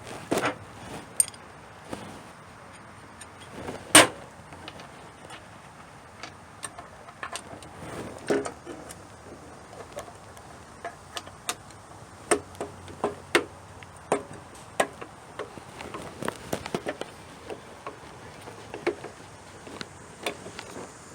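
Scattered small clicks, clinks and knocks of metal tool parts being handled, with one louder knock about four seconds in. There is no motor running.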